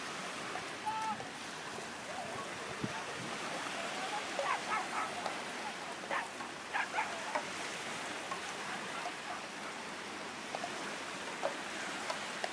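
Steady wash of surf on a beach, with a few short distant calls between about four and seven and a half seconds in.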